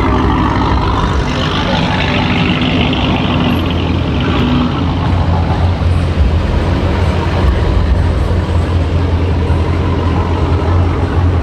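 Car engine running loud and steady with a deep drone, with a hiss higher up in the first few seconds.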